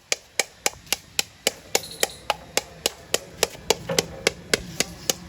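Rapid, evenly spaced hammer strikes, about four a second, kept up without a break.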